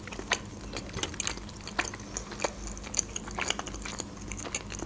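Close-miked chewing of a mouthful of soft boiled dumplings (pelmeni): many small wet clicks and smacks of the mouth, irregular, a few every second.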